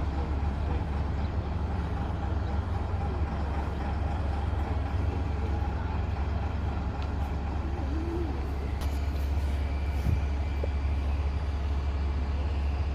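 Vintage bus engine running steadily as the bus manoeuvres back to its parking spot, a constant low rumble.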